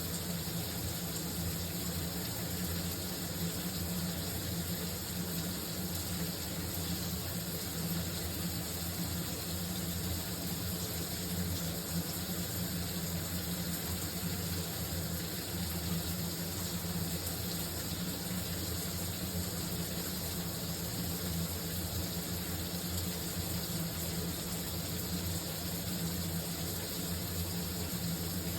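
Shower running: a steady, unbroken spray of water.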